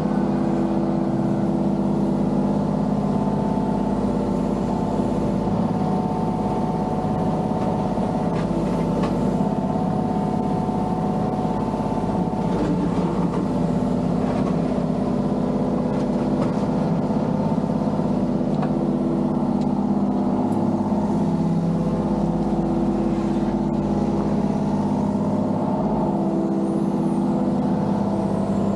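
Mini excavator's diesel engine running steadily while it digs, its tone shifting slightly as the load changes, with a few faint knocks.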